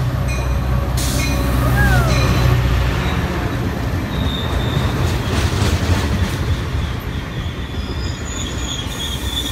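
Caltrain passenger train passing close by: a low diesel locomotive rumble for the first few seconds, then the cars rolling past with a rushing sound and high-pitched wheel squeal near the end.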